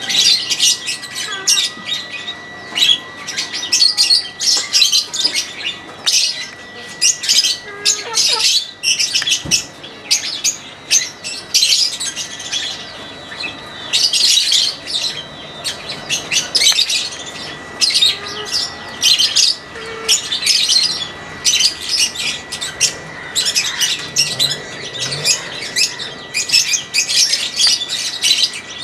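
A flock of small birds chirping and squawking over one another in a dense, continuous chatter, with a thin steady high tone underneath.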